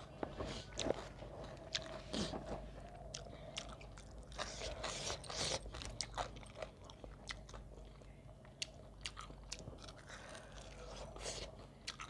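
Close-miked eating sounds: chewing and crunching on rice and roast chicken eaten by hand, with many short mouth clicks scattered throughout.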